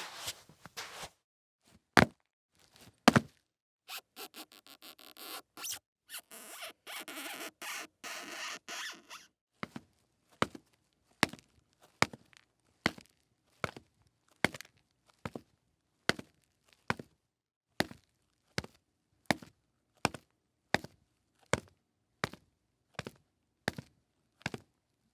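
Boots walking: two loud, heavy steps about two and three seconds in, then several seconds of scuffing and shuffling, then steady footsteps at a little over one step a second.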